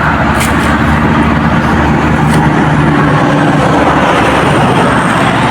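Steady road traffic noise, with a passing vehicle's engine hum in it for the first few seconds.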